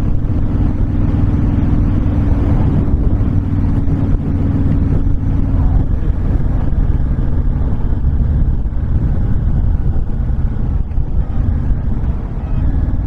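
Honda VTX1300 V-twin motorcycle engine running at road speed under heavy wind rush on the microphone, the windshield off. The engine note changes about six seconds in.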